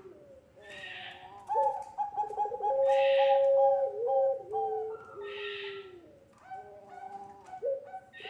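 Puter pelung doves cooing: long, drawn-out coos, each held and then stepping down in pitch, with two calls often overlapping and a breathy rasp at the start of a phrase about every two seconds.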